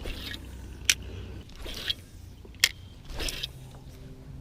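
Two sharp clicks, about a second apart and then nearly two seconds apart, among short rustles and a steady low rumble, from fishing tackle being handled in a kayak just after a cast.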